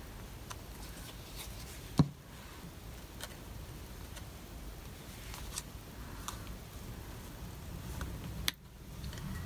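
Light handling sounds of crafting at a desk: a sharp click about two seconds in and another near the end, with faint ticks and taps between, over a low steady hum.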